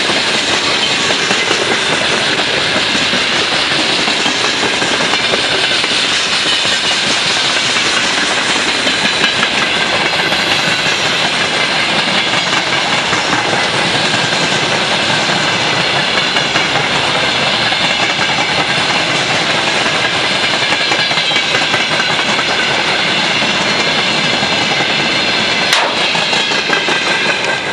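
Freight train wagons rolling past at close range: a steady loud rumble and clatter of wheels over the rails, with a faint high squeal from the wheels, and one sharp click near the end.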